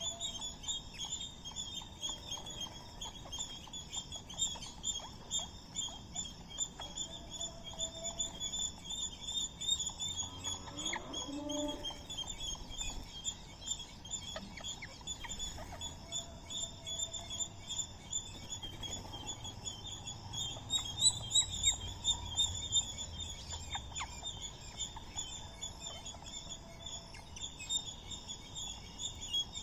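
Birds chirping in a dense, rapidly repeating high-pitched chorus that never lets up, with a few short lower notes and one falling call about ten seconds in.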